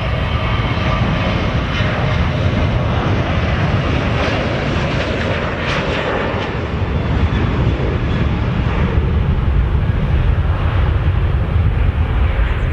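Jet airliner's engines running loud and steady as the aircraft passes, a dense low rumble with a thin high whine in the first couple of seconds that fades out.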